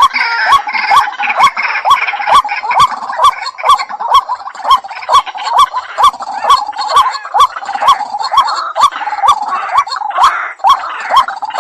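White-breasted waterhen calling in a fast, steady series of short notes, about three a second, each a quick upward-bending note with a sharp onset. This is the repetitive call that hunters use as a lure.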